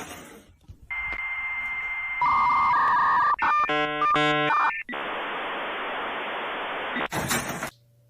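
Dial-up modem connection sound: a steady high tone over hiss, then pairs of beeping tones, a short warbling stretch of stacked tones, and a long steady hiss that cuts off near the end.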